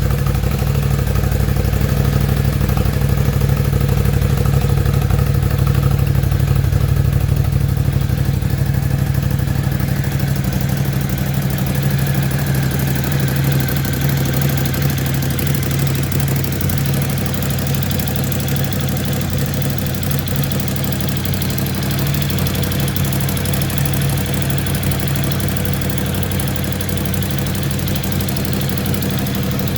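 Ducati Scrambler 1100's air- and oil-cooled L-twin engine idling steadily on its first-ever run from new. It becomes a little quieter about ten seconds in, with no revving.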